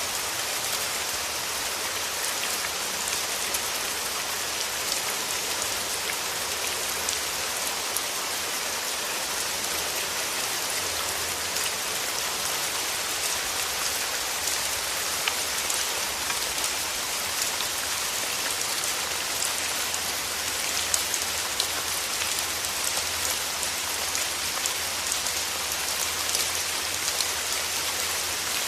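Steady rain falling through forest trees, an even hiss with many small drops ticking on leaves and surfaces.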